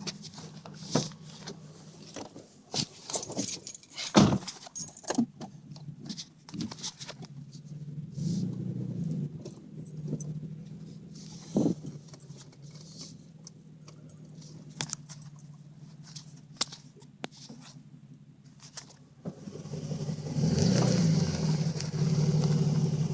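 Dodge Intrepid engine idling with a steady low hum under scattered clicks, knocks and key jangling, then getting louder about 19 seconds in. The owner says the timing-chain rattle is gone after adding an oil additive.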